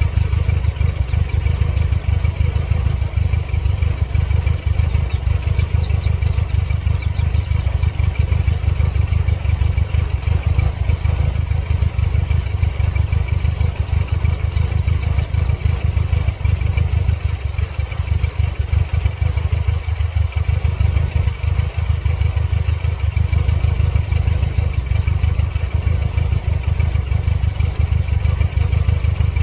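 1999 Mercedes-Benz C230 Kompressor's supercharged four-cylinder engine idling steadily with a low, even pulse. This is the engine the owner reports as having serious problems, with its check engine light flashing.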